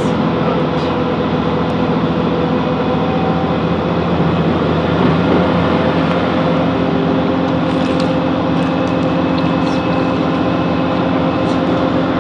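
Diesel engine drone of a Class 165 Networker Turbo diesel multiple unit, heard from inside the carriage; the engine note changes about five seconds in as the train moves off.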